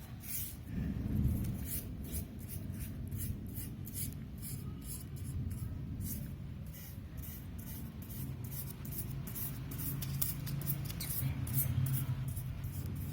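A paintbrush stroking wet paint onto paper: quick, repeated scratchy swishes, several a second, over a steady low rumble.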